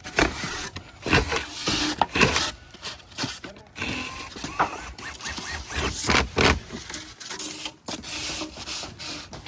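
Metal roof shingles being handled on the roof: an irregular run of knocks and scrapes with rubbing between them.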